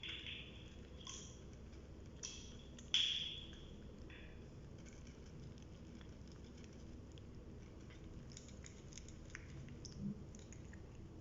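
Cats eating, with wet chewing and squelching sounds. These come in a few short bursts in the first three seconds, the loudest about three seconds in, then fade to faint scattered clicks.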